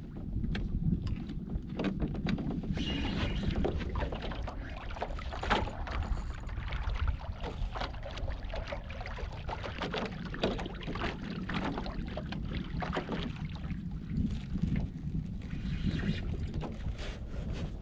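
Small skiff under way: a steady low rumble of wind buffeting the microphone, with frequent short knocks and slaps all through.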